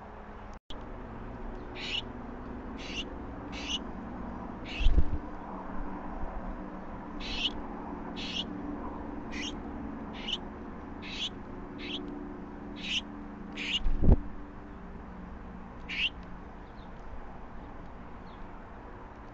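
A bird giving short high chirps, roughly one a second, over a low steady hum. Two dull thumps, about five seconds in and about fourteen seconds in, are the loudest sounds.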